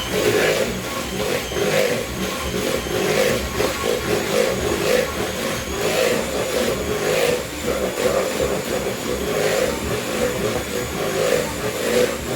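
Electric kitchen mixer running steadily, its beaters churning cake mixture, with a high motor whine and uneven surges.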